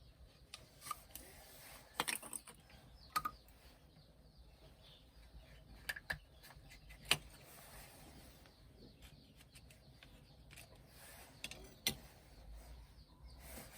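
Sparse, irregular light clicks and knocks, about half a dozen spread a second or more apart, over a faint background.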